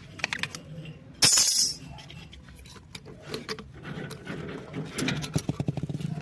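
A pipe being handled and cut: scattered clicks and scrapes, a short loud hissing scrape about a second in, and a fast rattling scrape near the end.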